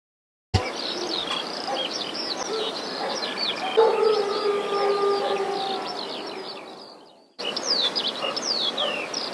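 Birds chirping, many short quick falling chirps overlapping, with a steady held call joining partway through for a couple of seconds. The sound fades away and then cuts back in.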